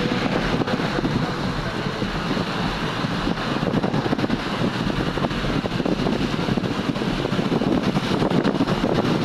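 Steady road traffic noise: vehicles running, a continuous low rumble with a rushing hiss over it.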